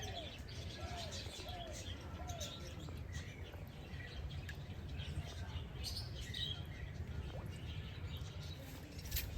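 Several birds chirping and calling. In the first couple of seconds one bird repeats short arched notes about twice a second, over a steady low background rumble.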